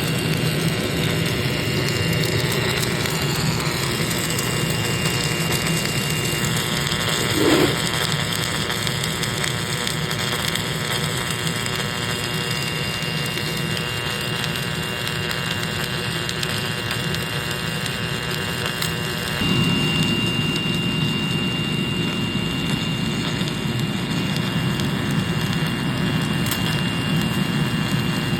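Steady machine noise: a constant hiss and rumble with a thin, steady high whine over it. A short swell comes about a third of the way in, and the low rumble grows louder about two-thirds of the way through.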